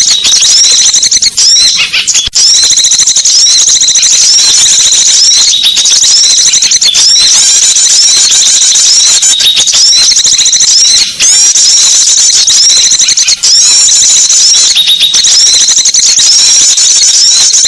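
Small-bird lure recording: a dense, loud chorus of rapid high-pitched chirps and twitters from many small songbirds, calling over one another, with a few brief dropouts.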